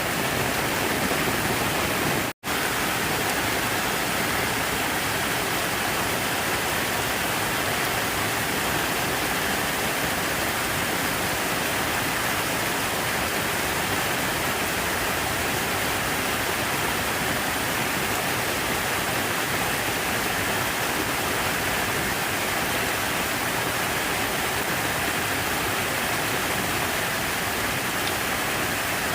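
Falling water rushing steadily, a continuous even hiss, which cuts out completely for an instant about two seconds in.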